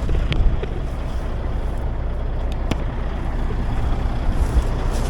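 A vehicle engine running steadily, a low rumble with a few faint clicks over it.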